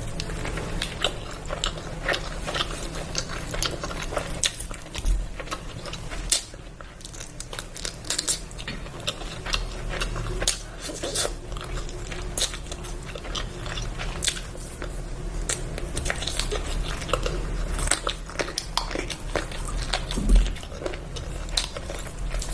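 A person eating close to the microphone, steady chewing with wet lip smacks and mouth clicks, over a steady low hum. There are dull bumps about five seconds in and again near the end.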